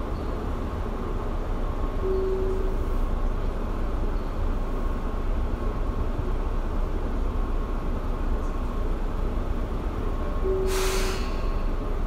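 Tobu 9050-series electric commuter train standing at the platform, its onboard equipment humming steadily. A short low tone sounds twice, and a sharp hiss of air comes about 11 seconds in.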